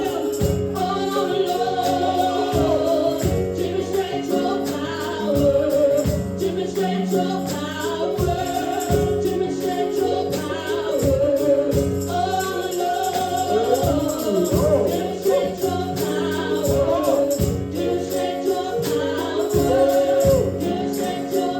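Live gospel praise-and-worship music: voices singing over sustained chords and a steady beat, with a tambourine.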